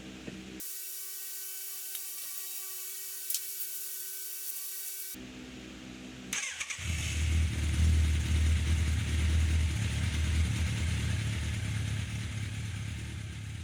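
Yamaha FZ750 inline-four motorcycle engine started with its starter: a brief rising whine, then the engine catches about seven seconds in and runs loudly and unevenly. A steady hiss comes before it.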